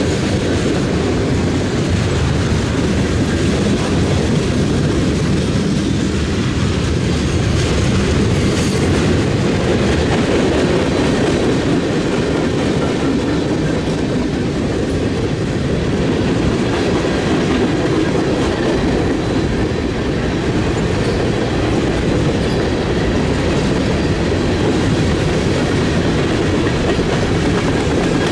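A passing train's cars rolling by steadily, with no letup in the sound.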